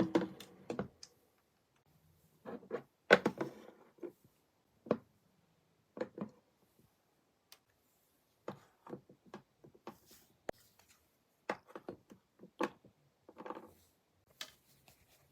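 Scattered, irregular light knocks and clicks of small items being handled and set down in a mini fridge.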